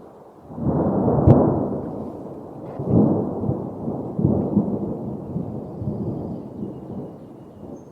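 A low rumble that swells and fades several times, with one sharp crack about a second in.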